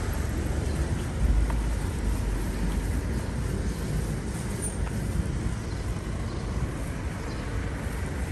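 Steady low rumble of road traffic, swelling briefly about a second in.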